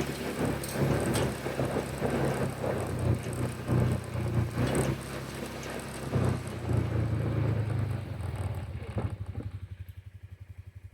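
A vehicle engine running under a rough, noisy rumble; about eight seconds in the rumble drops away and the engine settles to an even, pulsing idle that fades.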